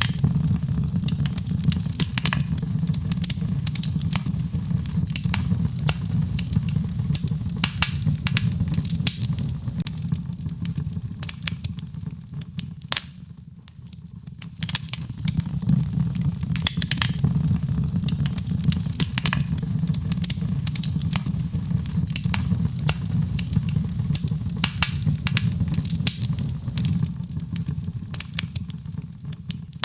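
Fireplace fire crackling, with dense sharp pops and snaps over a steady low rumble; the crackling thins out and goes quieter for a moment about halfway through.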